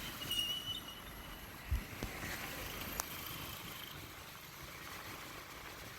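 Bajaj Pulsar 150 motorcycle on the move: steady, fairly quiet road and wind noise. A faint high tone sounds in the first second, a thump comes a little under two seconds in, and a sharp click about a second later.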